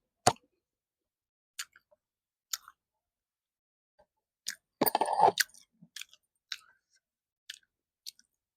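Close-up eating sounds: a person chewing food with short wet mouth clicks about once a second, and a longer, louder stretch of chewing about five seconds in.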